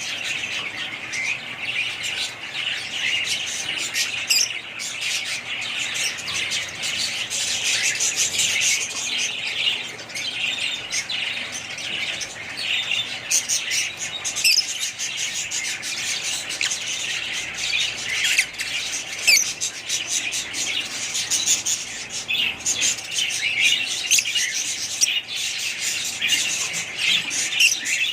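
A flock of small birds chirping continuously, many short overlapping calls at once with no break.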